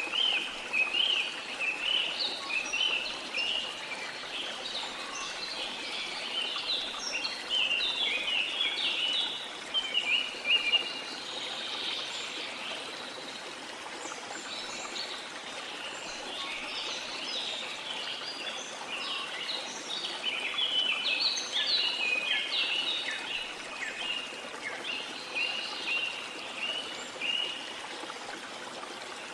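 Many small birds chirping and twittering in busy, overlapping calls over a steady wash of water. The chirping thins out for a few seconds around the middle, then picks up again.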